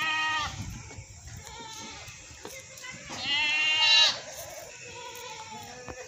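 Goat bleating: a call tailing off about half a second in, then a louder bleat lasting about a second, about three seconds in, and fainter bleats near the end.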